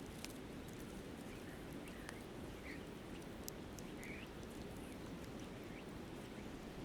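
Steady rush of a flowing river, with the small sharp crackles of a wood campfire and a few faint, short bird chirps.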